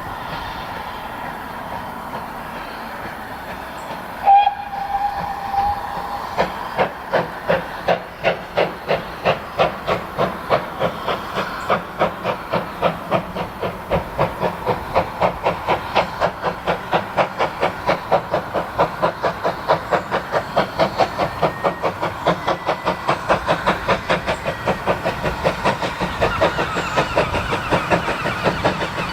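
Great Western 0-6-2 tank steam locomotive 6695 blowing its whistle once, briefly, then starting its train away. Its exhaust chuffs begin slow and steadily quicken as it gathers speed, over a background of steam hiss.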